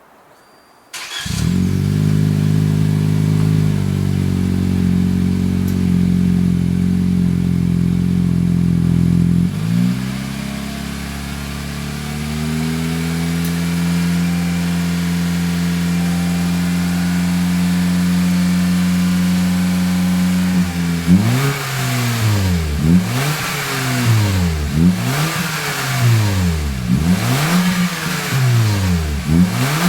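Toyota C-HR's 1.2-litre turbo four-cylinder engine heard through a Kakimoto Racing GTbox 06&S sports exhaust: it starts about a second in and idles at a raised speed, settles to a lower idle about ten seconds in, then from about twenty seconds in is blipped repeatedly, about one rev every two seconds, each rising and falling in pitch.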